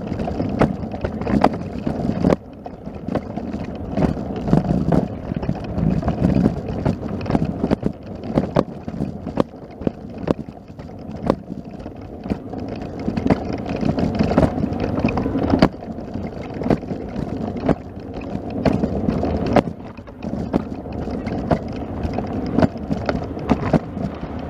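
Wind buffeting the microphone, a fluctuating rumble, with many irregular clicks and knocks over it.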